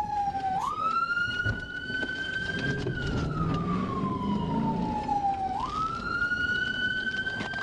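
Police car siren wailing: the pitch slowly falls, snaps back up and climbs again, about one cycle every five seconds, over steady road noise.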